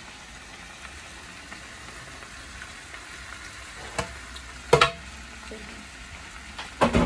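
Chopped sweet potato leaves frying in oil in a non-stick pan, a steady sizzle. A few sharp knocks cut through it in the second half, the last two the loudest.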